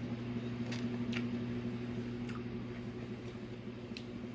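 Person chewing food, with a few faint brief wet mouth clicks, over a steady low electrical or fan hum.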